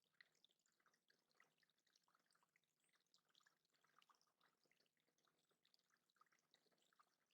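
Faint trickling and dripping of water in a small backyard bird-pond water feature, a steady scatter of tiny irregular drips and splashes.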